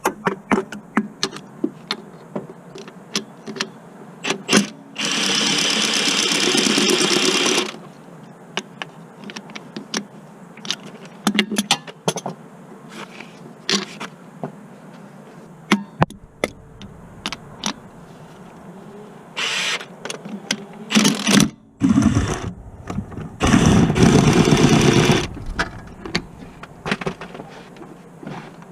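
Tool work on a car during a clutch job: scattered sharp metal clicks and knocks, with two longer, loud noisy bursts of a few seconds each, about five seconds in and again near the end.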